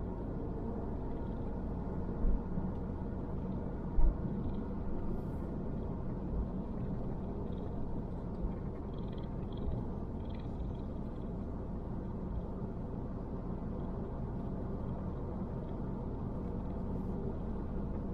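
Car driving slowly: a steady low rumble of engine and tyres heard from inside the cabin, with two sharp thumps about two and four seconds in and a few lighter knocks after them, like bumps in the road.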